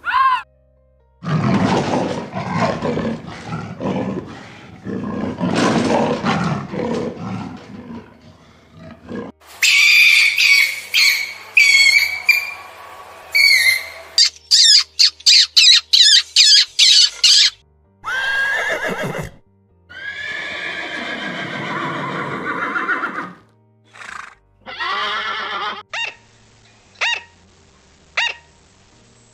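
Several different animal calls one after another, with music: a long low call for the first several seconds, then high, wavering calls, and short sharp calls about once a second near the end.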